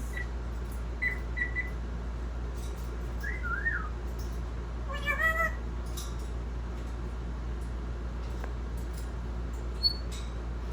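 African grey parrot vocalising: two short whistles about a second in, a wavering whistle a couple of seconds later, then a meow-like call around five seconds and a faint high chirp near the end.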